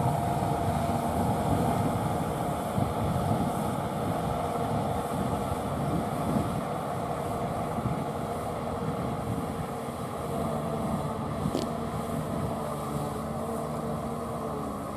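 Kubota M6040SU tractor's four-cylinder diesel engine running steadily under load as it pulls a rotary tiller through wet, muddy paddy soil.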